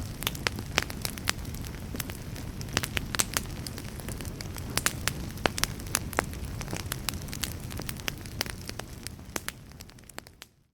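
Wood fire crackling, with frequent sharp pops and snaps over a low steady rumble. Near the end the sound fades out to near silence.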